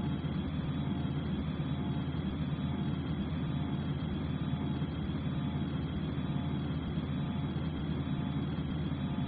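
Steady low drone of an airliner cabin in flight: engine and airflow noise, even and unchanging.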